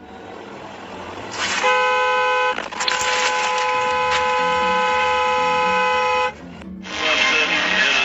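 Car horn sounding twice: a short honk, then a long held blast of about three and a half seconds, given in anger just after a near collision. Near the end a loud, steady rush of noise comes in.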